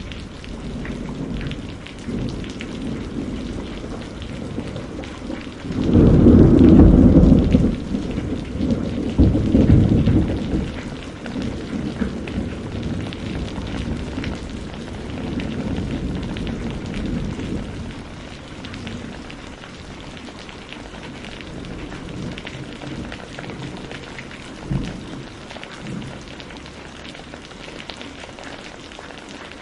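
Steady rain falling with a fine patter of drops. About six seconds in, a loud low rumble of thunder sounds. A second rumble comes around ten seconds and dies away over the next several seconds, and a short low thump follows near the end.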